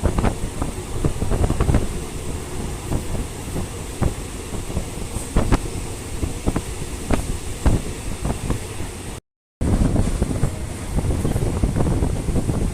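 A moving passenger train heard from aboard: a steady rumble of wheels on the track with frequent clanks and knocks from the carriages, and wind buffeting the microphone. The sound drops out completely for about half a second some nine seconds in.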